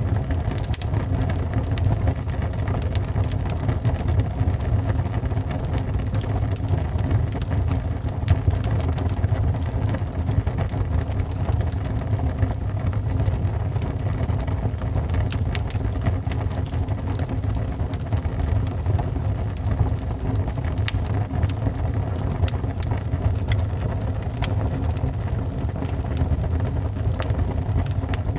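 Log fire burning in a fireplace: a steady low rumble of the flames with frequent small, sharp crackles and pops scattered throughout.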